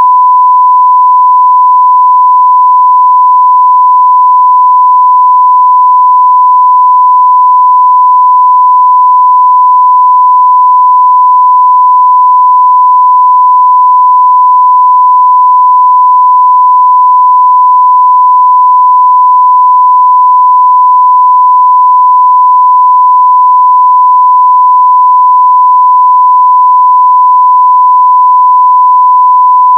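Continuous 1 kHz sine-wave test tone at full level, one steady pure pitch with no change.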